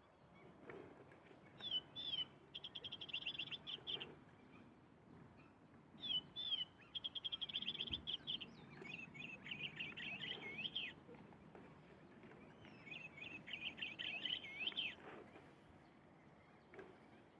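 Bird calls: short down-slurred chirps followed by fast, rapid trills, coming in three bouts with pauses between them.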